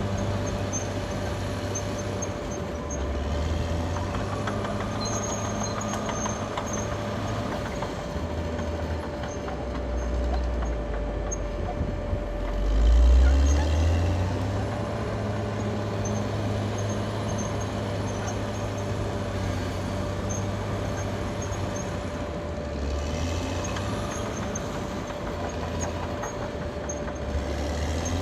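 Caterpillar D6R XL bulldozer working: its diesel engine runs steadily with a constant whine, and the engine note sinks and rises again several times as the load changes. The biggest surge comes about halfway through.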